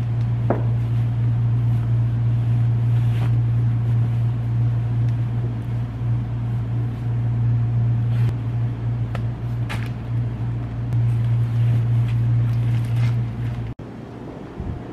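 A steady low mechanical hum that cuts off abruptly near the end, with a few brief soft rustles of cotton fabric as a cushion is handled.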